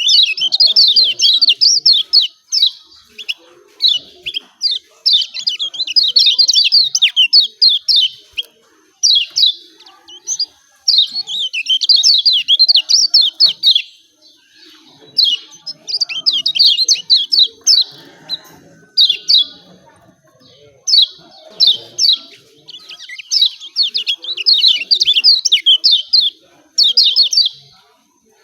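Kecial kuning (lemon-bellied white-eye) giving its rapid 'ciak ciak' chattering call: loud bursts of quick, high, falling notes, a second or two each, repeated with short pauses.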